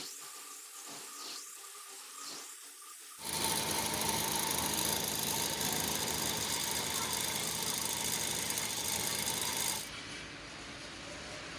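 A workshop machine or power tool running steadily. It starts abruptly about three seconds in, much louder and with a steady whine, and cuts off shortly before the end, leaving a quieter machine noise.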